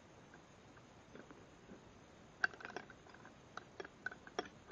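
Faint clicks and clinks of wrenches being handled, a quick cluster of them starting about halfway through.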